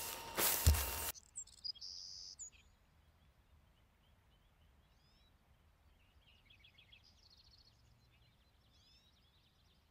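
A brief loud rush of noise in the first second, then near silence with faint songbird chirps and short trills scattered through the rest.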